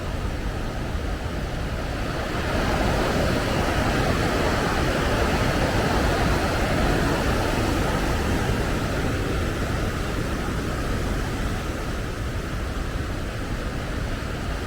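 Waterfall rushing: a steady roar of falling water that swells a little about two seconds in.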